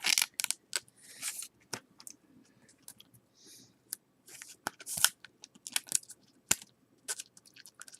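1992-93 Fleer Ultra basketball trading cards being handled and flipped through by hand: irregular sharp clicks and brief rustles as the cards slide and snap against each other.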